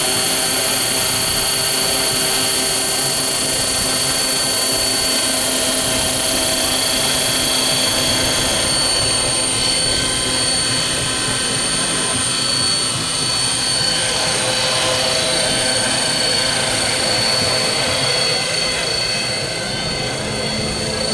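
Giant-scale radio-controlled model aircraft engine running at steady power: a continuous high whine over a lower engine drone, with the pitch settling just as it begins.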